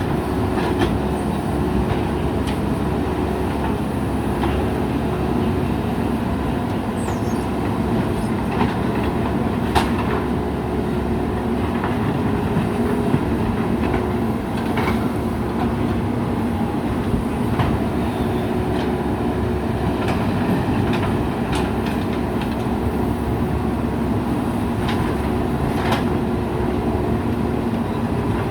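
JCB backhoe loader's diesel engine running steadily under load, with occasional sharp knocks from the machine at work.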